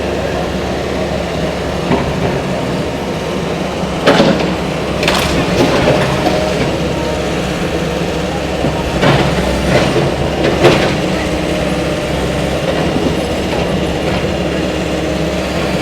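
Demolition excavator's diesel engine running steadily while it tears into a building, with several crashes of breaking and falling debris, about four and five seconds in and again around nine to eleven seconds.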